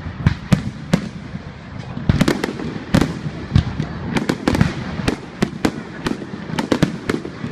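Fireworks display: a rapid, irregular series of sharp bangs, several a second, some echoing.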